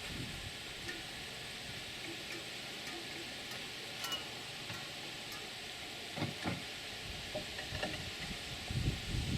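Faint, scattered clicks and knocks of metal parts of the pickup-bed crane being worked, a few close together near the end, over a steady hiss.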